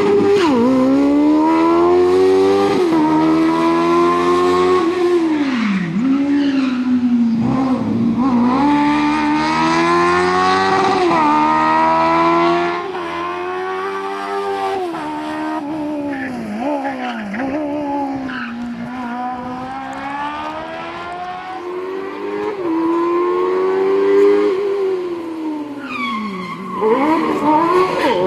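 A Smart Fortwo's Kawasaki Ninja motorcycle engine revving hard, its pitch climbing steeply and falling again over and over as the car accelerates, changes gear and lifts off for corners. It grows quieter about halfway through and comes back louder near the end.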